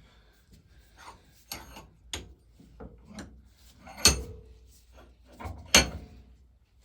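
Pump parts being handled and fitted during reassembly: a string of clicks and knocks, with two louder knocks about four and six seconds in, the first ringing briefly.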